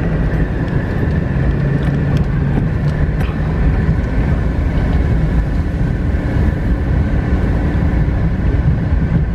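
Car interior noise while driving slowly on a dirt road: a steady low rumble of engine and tyres on gravel.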